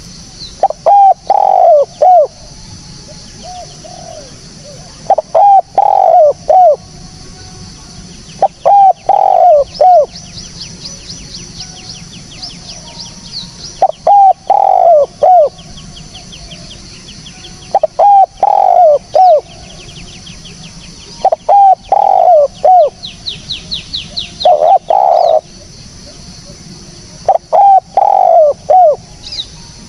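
Spotted dove (tekukur) cooing clearly: short phrases of three or four low coos, repeated every three to four seconds. Twice a faint, rapid high trill sounds in the background over a steady high hiss.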